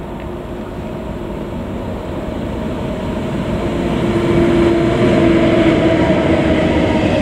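Train approaching and running past at slow speed, its rumble growing louder over the first four seconds or so and then holding steady, with a steady whine of several tones above the rumble.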